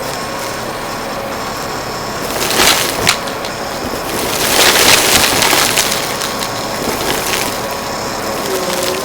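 Upright vacuum cleaner running steadily, with loud crunching and crackling as it sucks up dry debris: a short burst about two and a half seconds in and a longer one around the middle.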